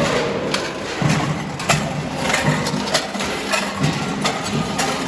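Folk dance music with sharp percussive knocks, about two a second.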